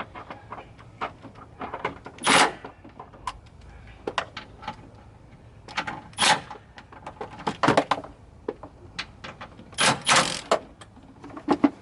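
Hand tools and metal parts being handled during auto repair: a string of irregular clicks and knocks, with short rasping scrapes about two, six and ten seconds in.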